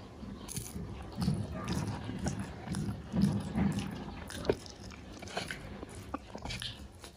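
Close-up chewing of a mouthful of rice and chicken curry, with irregular wet smacks and clicks of the mouth, busiest in the first half, with one sharp click about four and a half seconds in.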